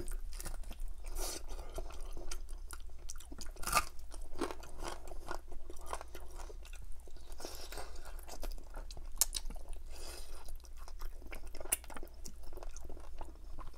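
Chewing and biting into a crispy oven-baked chicken drumstick coated in butter chicken sauce: a run of irregular crunches and wet mouth smacks.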